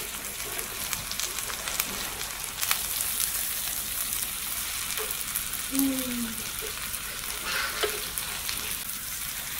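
Chicken breasts sizzling in butter with sautéed onions and garlic in a nonstick skillet, with light clicks of metal tongs against the pan as the breasts are flipped.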